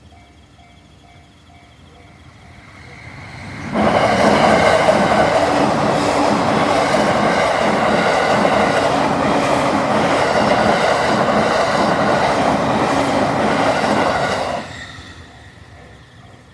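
A train passing close over a Japanese level crossing. It comes in suddenly loud a little under four seconds in, runs for about eleven seconds with wheels clacking over the rail joints, then falls away. The crossing's warning bell is heard ringing in a steady, even pulse before and after the train.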